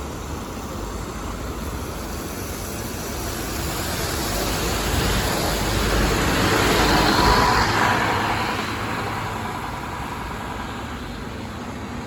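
A bus driving past: engine and tyre noise growing louder to a peak a little past halfway, then fading away.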